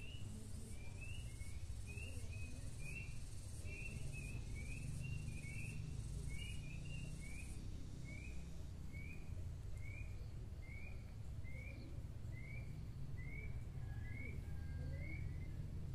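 A bird calling over and over with short rising chirps, closely spaced at first and then about one every half second or so. An insect's high pulsing buzz runs beneath it and stops about halfway through.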